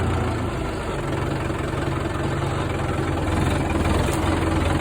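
Farm tractor engine running steadily at low speed, loud and close, while it moves a round hay bale into the barn.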